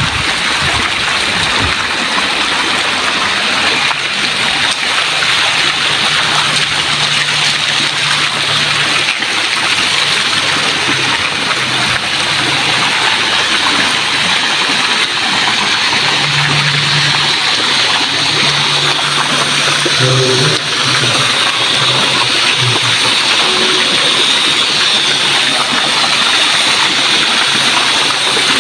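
Flowing water rushing steadily and loudly, with faint low humming tones that come and go in the middle.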